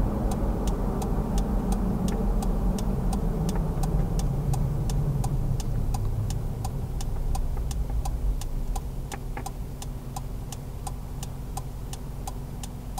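Turbocharged Toyota 3RZ-FE 2.7-litre four-cylinder engine heard from inside the cab. Its note falls as the truck slows over the first several seconds, then settles low and steady toward idle. A turn-signal relay ticks about three times a second throughout.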